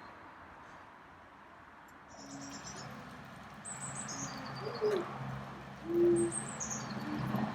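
Birds calling: short low hooting notes, the loudest about six seconds in, with three high, falling chirps from a smaller bird.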